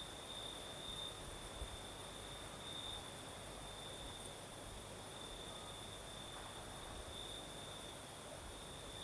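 Crickets singing at night: a steady high-pitched trill that swells and fades every second or two. Under it is a faint low rumble of night breeze.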